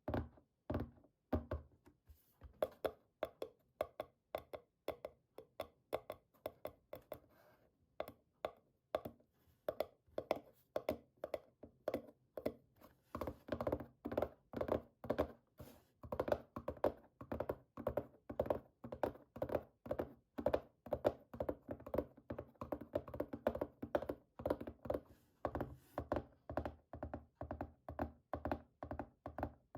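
Fingertips tapping quickly and steadily on a computer keyboard, a train of dull plastic thuds about three to four a second, thinning out briefly about a third of the way through.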